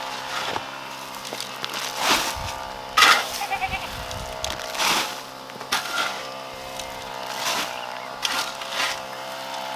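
Goats bleating, among repeated short knocks and scrapes of work.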